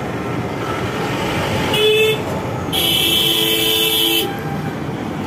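Vehicle horns honking over steady street traffic: a short beep about two seconds in, then a longer horn blast lasting about a second and a half.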